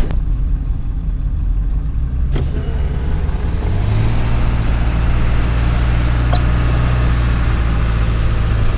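Truck engine and tyres on a dirt road, heard from inside the cab while climbing, a steady low rumble with road noise. The engine tone strengthens and steadies about four seconds in, and there are a couple of light knocks.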